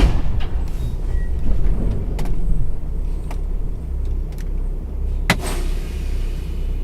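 Steady low rumble of a vehicle's engine and road noise heard inside the cab, with a few separate sharp clicks, the loudest about five seconds in.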